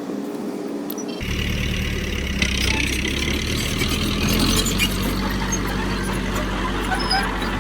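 Heavy diesel engine of earthmoving machinery running steadily. It cuts in abruptly about a second in, with some rattling over it.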